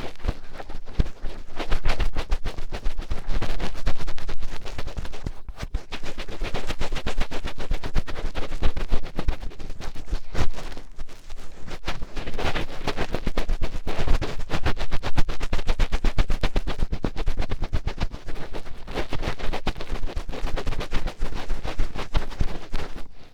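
Finger ear cleaning: a fingertip digging, rubbing and scratching in an ear right at the microphone, a dense, continuous crackle of rapid scrapes and rubs.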